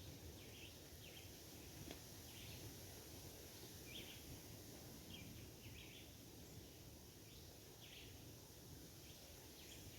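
Near silence: faint ambience with faint, short bird chirps scattered through it, roughly one a second.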